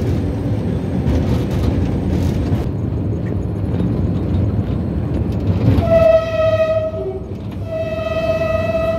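Passenger train running, a steady low rumble of wheels on track heard from on board; about six seconds in the locomotive's horn sounds, a short blast and then a longer one that is still going at the end.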